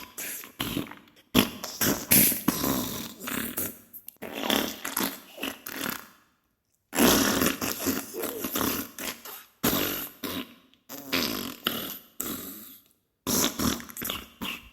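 Diarrhea sound effect: a string of wet, sputtering fart bursts, each about a second long, with a brief silent pause about six seconds in.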